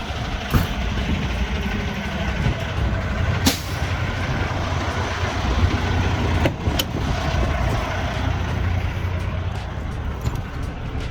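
Semi truck driving, heard from inside the cab: a steady low engine and road rumble, with a few sharp clicks or knocks along the way.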